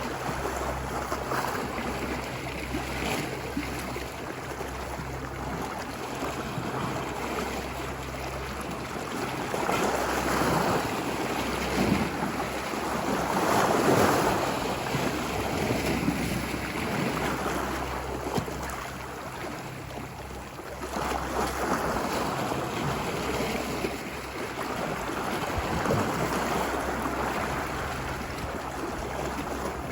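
Ocean waves washing ashore on a beach: a steady wash of surf that swells and ebbs, the biggest wave coming about halfway through, with smaller ones later. Wind noise on the microphone adds a low steady rumble underneath.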